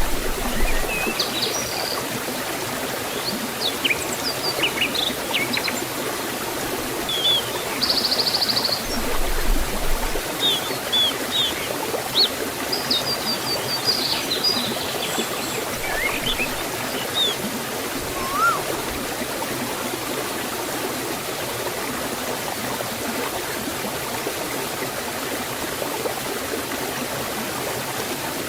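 Steady rush of forest waterfall and stream water. Small birds chirp over it for the first two-thirds, with a brief rapid trill about eight seconds in, then only the water remains.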